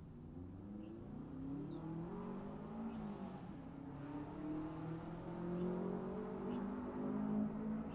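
A motor vehicle's engine growing steadily louder as it approaches, its pitch rising and falling with changes in engine speed. Faint short bird chirps sound over it.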